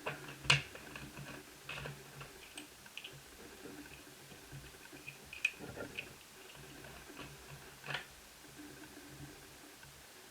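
Scattered sharp clicks and light plastic knocks from an Asus F5R laptop's case and battery being handled as the battery is unlatched and removed. The loudest click comes about half a second in. A faint steady low hum runs underneath.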